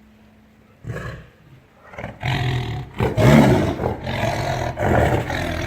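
Tiger roaring: a short first burst about a second in, then from about two seconds a loud, continuous deep roar whose pitch rises and falls.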